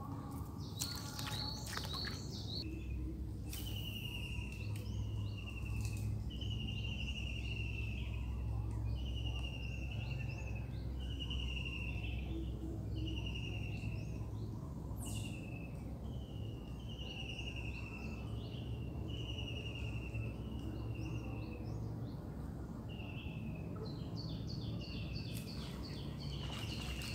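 A bird calling over and over: a short whistled note, falling slightly in pitch, about once a second, with a quicker run of higher chirps near the start and again near the end. A steady low rumble lies underneath.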